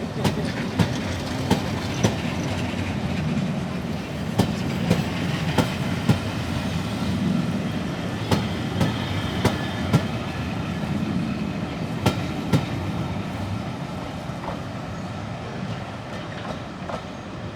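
Railway coaches rolling past, wheels clicking irregularly over rail joints and points above a steady rumble. The clicks stop and the sound fades slowly in the last few seconds as the train draws away.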